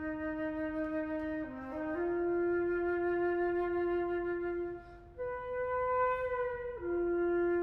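Solo flute playing long held notes in its low register, dropping briefly about a second and a half in; after a short break about five seconds in it leaps to a higher note, then falls back down.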